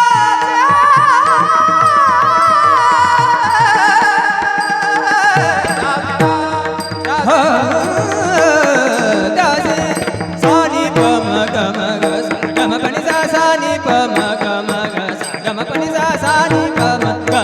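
Indian devotional singing in a classical style, a wordless vocal run with fast ornamented pitch turns and a long falling glide about eight seconds in, over a steady drone and instrumental accompaniment.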